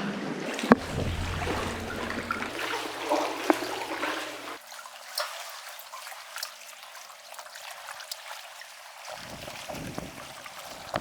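Sea water trickling and lapping, with a few sharp clicks; the loudest click comes about three-quarters of a second in.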